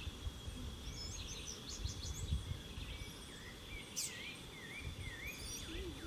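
Wild birds calling over outdoor ambience: a few high chirps about a second in, then a run of about four swooping notes, one after another, from about three and a half seconds. A steady thin high tone and a low rumble lie under the calls.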